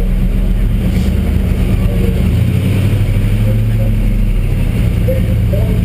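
Stock CUCV M1008 pickup's diesel V8 running hard under load while pulling the sled. The steady engine note rises a little about two seconds in and drops back near the end.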